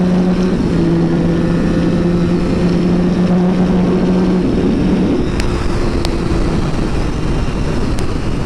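Honda road motorcycle riding at a steady cruise, its engine note holding steady, then dropping away about five seconds in, leaving mostly wind noise over the microphone.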